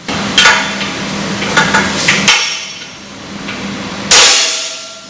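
Sharp metal-on-metal clanks with a brief ringing, from a heavy bolt cutter's jaws biting and slipping on a stainless-steel padlock shackle that resists the cut. There are several clanks, one about half a second in, a quick cluster around two seconds, and the loudest about four seconds in.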